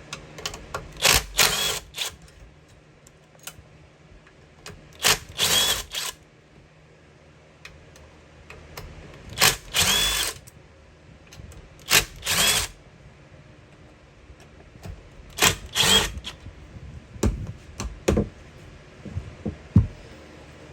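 Power driver with an Allen bit spinning out the screws of a jet ski engine's intake covers: five short whirring runs a few seconds apart, with small metal clicks and knocks of screws and parts being handled in between.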